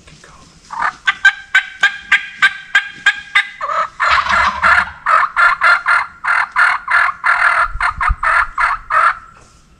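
A run of turkey yelping: a couple of seconds of sharp, clicky notes, then a steady series of about fifteen raspy yelps at roughly three a second, stopping a little before the end.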